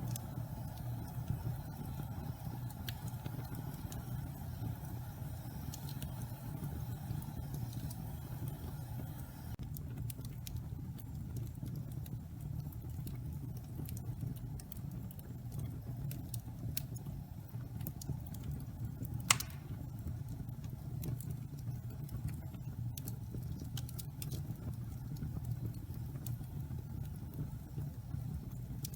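Wood fire in a fireplace burning damp pine logs: a steady low rumble with scattered crackles and one loud sharp pop about nineteen seconds in. A faint hiss drops away about ten seconds in.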